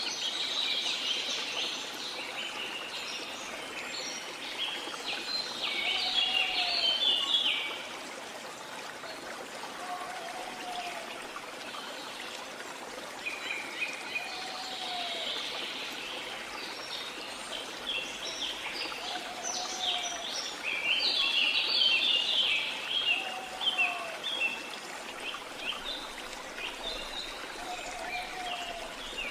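Steady sound of a waterfall, with birds chirping in bouts: about a second in, around six to seven seconds in, and again near fifteen and twenty-one to twenty-four seconds in. A short, low, arched note repeats about every four seconds underneath.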